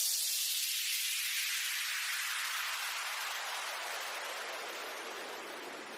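A hiss of electronic white noise fading out. Its low end thins away so it grows steadily thinner and higher, as in a noise-sweep effect at the tail of electronic music.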